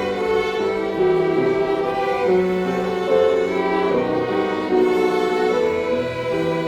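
String orchestra of violins and cellos playing a slow hymn, bowed notes held about a second each before moving to the next.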